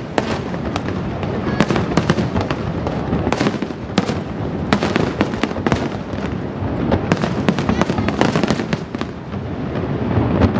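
Fireworks display: a dense, irregular barrage of shell bursts, several a second, over continuous crackling.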